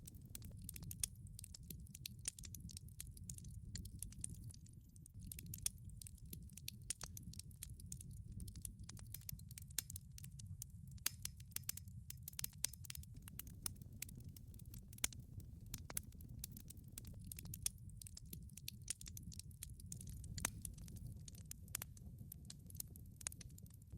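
Wood fire crackling in a wood-fired pizza oven: irregular sharp pops and snaps over a low, steady rumble of the burning fire.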